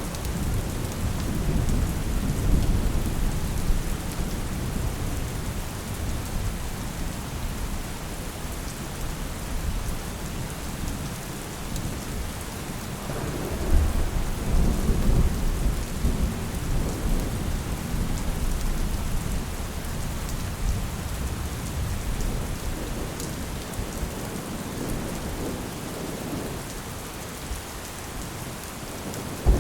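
Steady rain falling, with low rolling thunder rumbling underneath that swells about halfway through.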